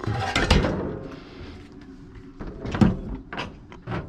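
Scrap metal being handled and moved: a clatter of knocks in the first half second, then single clanks about three seconds in.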